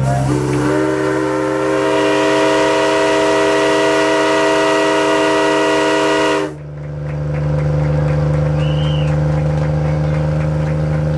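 Steam locomotive whistle blowing one long blast of about six seconds, a steady multi-tone chord with hiss, cut off sharply. A steady low engine hum continues underneath.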